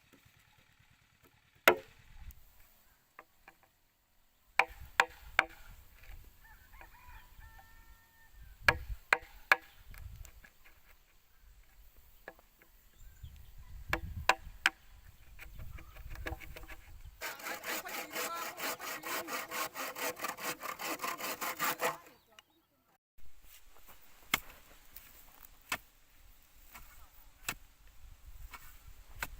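Bamboo being worked by hand: scattered knocks and taps, then a run of about five seconds of fast, even hand-saw strokes a little past halfway that stops abruptly, followed by more light knocks.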